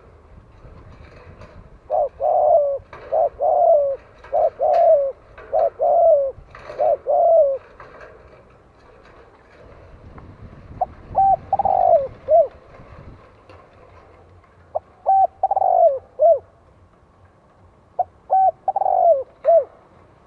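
Spotted dove cooing: about two seconds in, five quick double coos in a row, then three separate phrases, each a brief note followed by a longer falling coo. This is the calling used to provoke and lure wild spotted doves.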